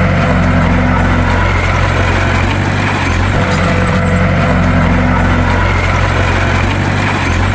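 Bulldozer's diesel engine running steadily, its note shifting slightly every few seconds.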